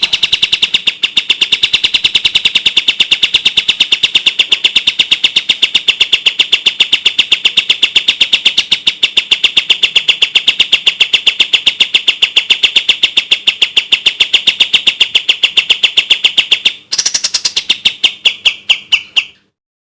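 Kapas tembak bird song: a fast, unbroken rapid-fire run of sharp, clear repeated notes, high and even. It breaks off briefly near the end, then a short, more spaced-out burst follows and stops.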